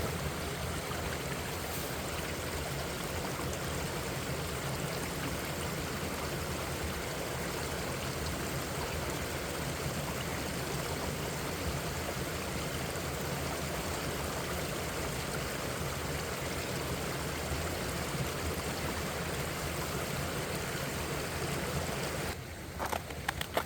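Mountain stream rushing steadily over mossy rocks and small falls. Near the end the water sound drops away and a few short, irregular crunches follow.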